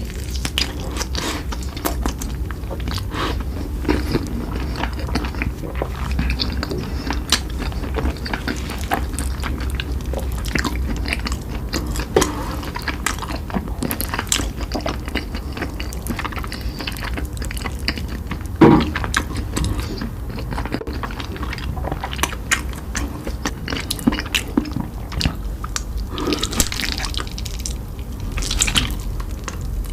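Close-miked chewing and biting of food, a dense run of small wet clicks and crunches, with one louder short sound about two-thirds of the way in.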